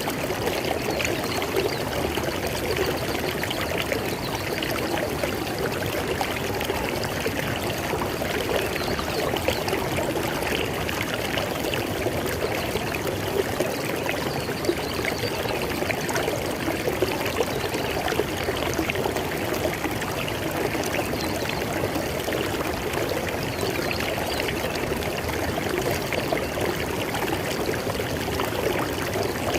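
River water flowing over rocks: a steady rushing and babbling with small splashes running through it.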